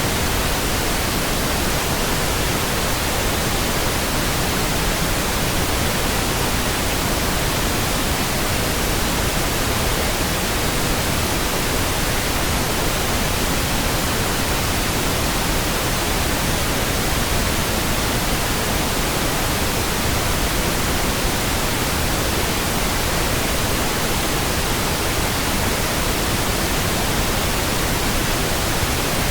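Steady pink noise: an even, unchanging hiss spread across all pitches, with no breaks or sudden sounds.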